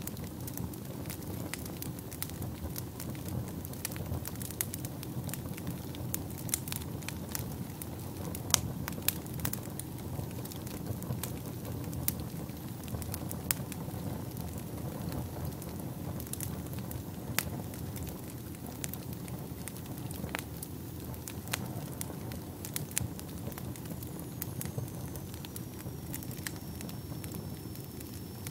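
Wood fire burning in a fireplace: a steady low rumble of flames with irregular sharp crackles and pops. A faint high whistle comes in near the end.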